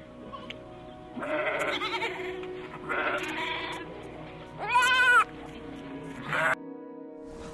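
Sheep bleating several times, the loudest bleat about five seconds in, over background music.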